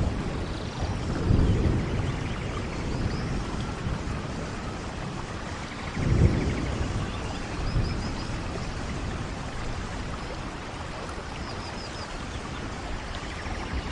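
Steady rain falling, with low rolls of thunder swelling about a second in and again, loudest, about six seconds in.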